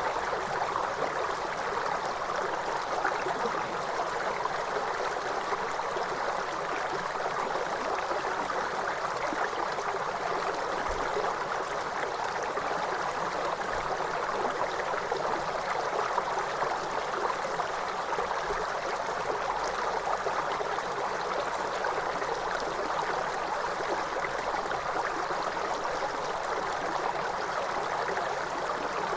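Waterfall water splashing and rushing in a steady, unbroken hiss, with no music or other sounds.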